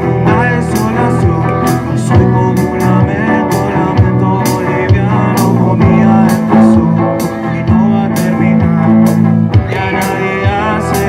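Live band playing a blues-rock style song: guitar and a drum kit with steady cymbal hits, and a voice singing at times.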